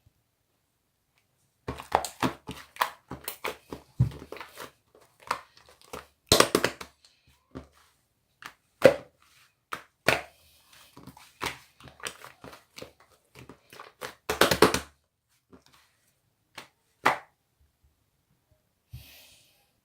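Two-layer mixed slime being squished, poked and stretched by hand, giving irregular sticky clicks and crackling pops. It starts after a short silence, comes in two denser bursts around the middle, and thins to a few single pops near the end.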